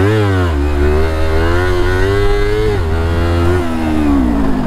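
Motorcycle engine under the rider, revving up, then holding a steady pitch with a couple of brief dips and falling away near the end as the throttle comes off.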